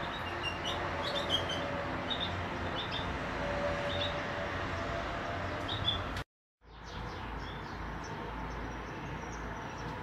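Small birds chirping in short, repeated high calls over a steady low background rumble. The sound drops out completely for a moment about six seconds in, then the rumble returns with fainter chirps.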